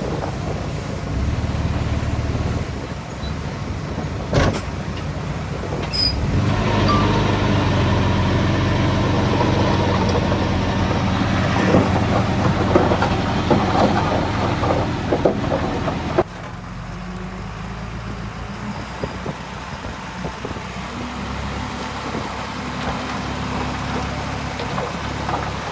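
Heavy diesel engines of earthmoving machines, a bulldozer and dump trucks, running under load. From about six seconds in they get louder, with rattling and clanking over the engine note, and about sixteen seconds in this drops off abruptly to a quieter steady engine drone. Two sharp clicks come before the loud stretch.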